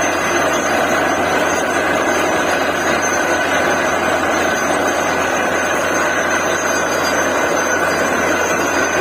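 DTH borewell drilling rig running steadily, a loud even machine noise with a constant high whine over it.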